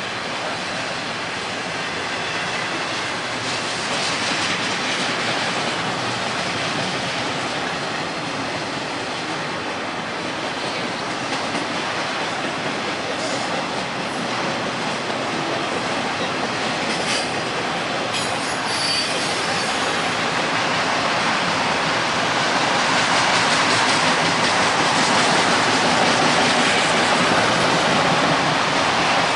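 Railroad cars rolling past on the rails, a steady rush of wheel and rail noise with a brief high wheel squeal about two-thirds of the way through, growing a little louder near the end.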